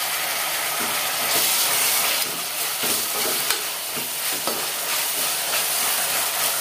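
Onions and freshly added chopped tomatoes sizzling in hot oil in an aluminium pressure cooker, a steady hiss, with the scrape and clink of a slotted metal spoon stirring them a few times in the middle.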